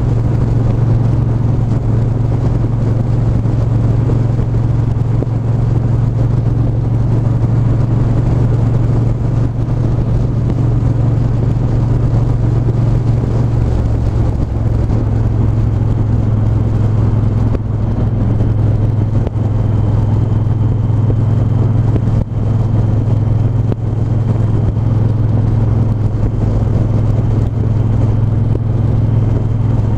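Triumph 1200 cc parallel-twin motorcycle engine running steadily under way, its pitch settling a little lower about halfway through.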